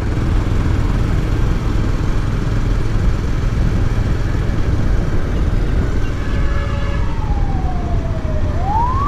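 Steady low rumble of a moving motorcycle. About six seconds in, a fire engine's siren begins wailing; its pitch falls slowly, then rises again near the end.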